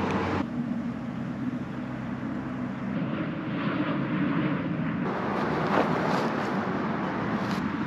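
Steady low rumble of distant engine noise, like passing traffic or an aircraft, with no sharp events in it.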